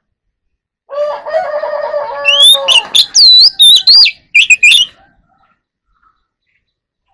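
Oriental magpie-robin singing one burst of song. It starts about a second in with lower warbling notes, then moves into loud, high whistled notes that sweep up and down, and stops about five seconds in.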